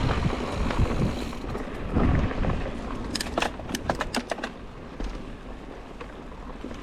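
Mountain bike rolling over a dirt trail: a steady rumble and hiss from the tyres and the ride, with a quick run of sharp clicks and rattles about three seconds in.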